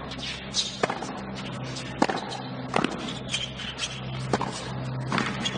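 Tennis rally: about five sharp racket hits on the ball, spaced unevenly a second or so apart, over a steady low hum.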